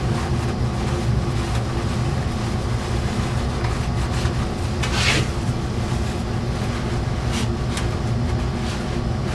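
A steady low rumble, like a motor or fan running, with a short hiss about five seconds in.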